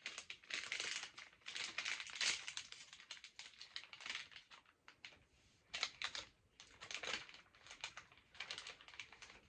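Plastic snack packaging being opened and handled, crinkling and crackling in repeated bursts of a second or so.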